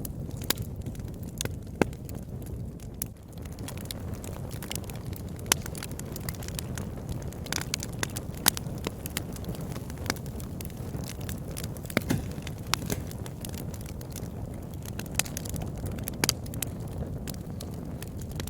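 Wood fire in a fireplace crackling, with sharp pops at irregular intervals over a steady low rush of burning.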